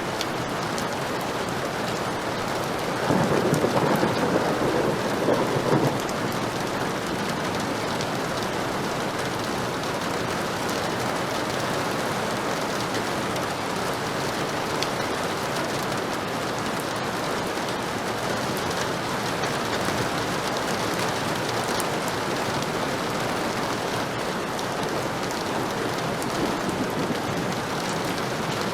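Heavy rain falling steadily, with a roll of thunder about three seconds in that lasts around three seconds and breaks off suddenly.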